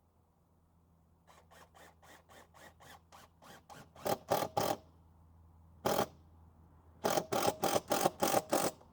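Hand scraping strokes on wood, quick and short at about three a second, faint at first and louder from about four seconds in, coming in runs with brief pauses.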